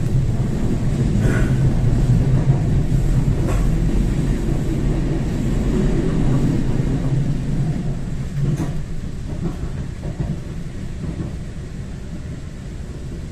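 Train running with a low rumble that builds over the first few seconds, then slowly fades, with a few faint clicks over it.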